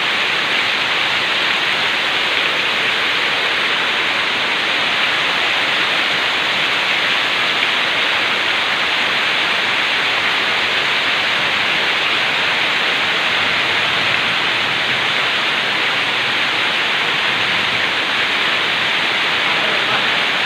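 Heavy tropical downpour: a loud, steady hiss of rain.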